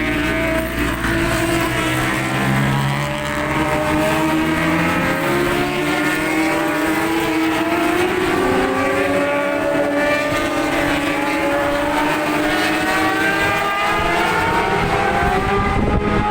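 Racing motorcycle engines running hard at high revs, several at once, their pitches rising and falling as the bikes go past.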